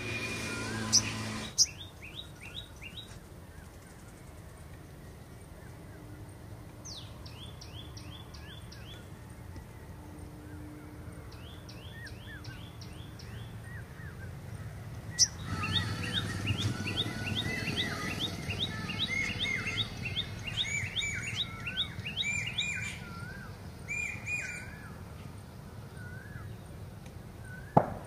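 Small birds calling: short runs of rapid, repeated high down-slurred notes, several notes a second, with softer wavering whistles beneath. The calling is loudest and most continuous from about halfway to near the end, over a low rumble, and a sharp click comes near the end.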